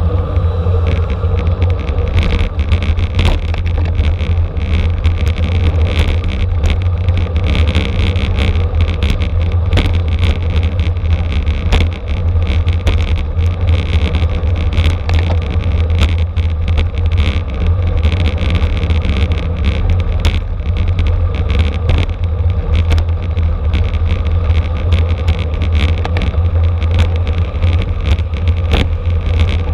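Steady wind rush and heavy low rumble on a racing bicycle's onboard camera, with many small rattles and clicks from the road.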